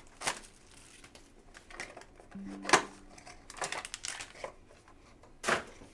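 Plastic trading-card packaging crinkling and crackling as it is handled, with a few sharp clicks, the loudest about two and a half seconds in and near the end.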